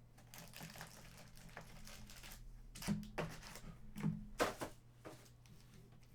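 Foil trading-card pack wrapper crinkling and tearing as a pack is opened, followed by several sharp taps and clicks of cards being handled on the table.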